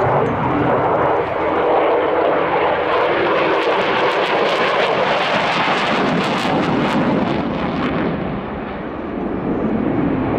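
F-16 fighter jet flying a display, its loud engine rush swelling and easing as it manoeuvres. A crackling rasp comes through in the middle, and the noise drops away about eight seconds in before building again.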